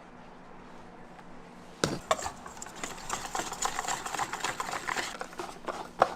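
Frogs being mixed into frying batter in a bowl: a knock about two seconds in, then a few seconds of rapid wet stirring and clattering.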